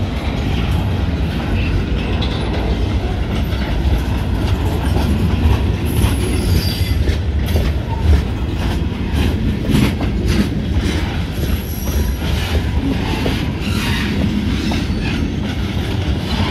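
Loaded pulpwood freight cars rolling past close by over a road crossing: a steady rumble with irregular clanks and clacks as the wheels cross the rail joints. A couple of brief faint high wheel squeals come through.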